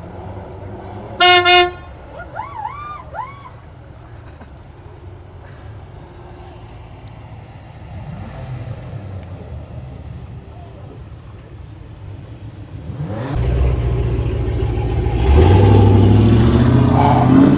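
Two short, loud car horn honks about a second in, followed by a few quick rising-and-falling chirping tones. Car engines idle under it, then about 13 seconds in a loud car exhaust comes up and revs, rising in pitch.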